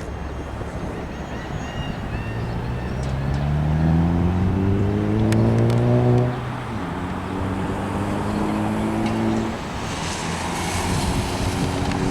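A motor vehicle engine accelerating: its pitch climbs steadily for about five seconds, drops sharply at a gear change about six seconds in, then runs steadily.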